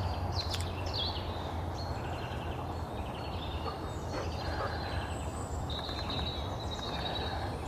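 Wild songbirds singing: several short high chirps and quick down-sweeping notes within the first second, scattered calls after, then a high trill about six seconds in, over a steady low rumble of outdoor background noise.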